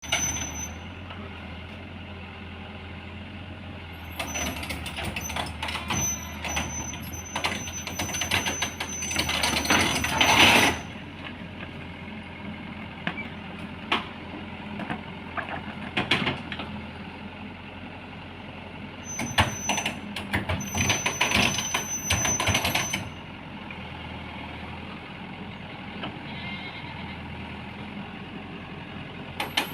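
Heavy diesel machinery running steadily as an excavator is driven off a transport truck, with two spells of clanking and a thin high squeal, about four seconds in and again around twenty seconds. A loud hiss comes near the ten-second mark.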